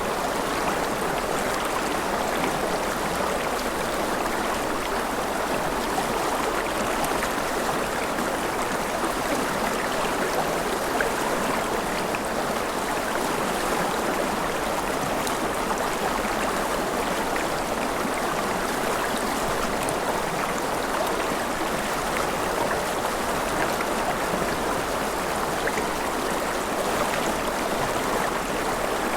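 A river flowing steadily over rocks: a continuous, even rush of water with small splashes and trickles.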